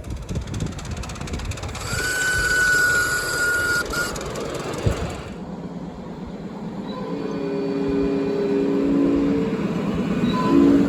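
5-inch gauge miniature train running on the track, with rhythmic low clatter and a steady high tone for about two seconds. After a sudden change about five seconds in, a chord of several steady low tones sounds together for about three seconds.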